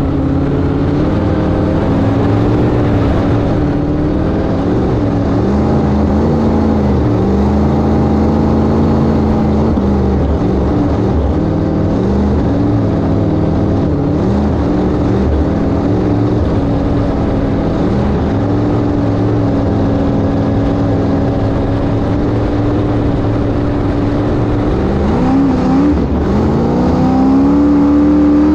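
1971 Sanger flat-bottom V-drive boat's inboard engine running under way. Its pitch rises and falls with the throttle, then climbs steeply in a rev-up near the end.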